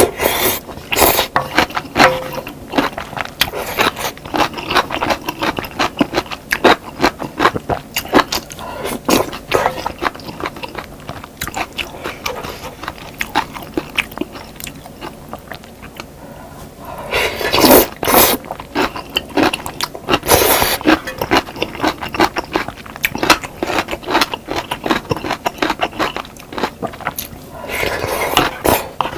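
Close-up eating sounds: crunching bites into fried chicken wings and chewing, with many small crackles and clicks throughout and several louder crunching bites in the later part.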